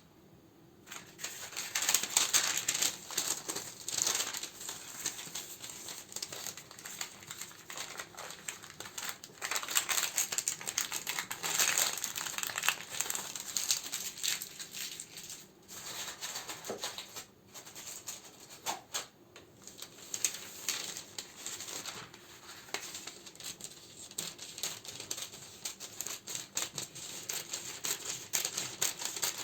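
Crinkling of candle wrappers being handled during sorting, a dense run of crackles starting about a second in, with a few short breaks.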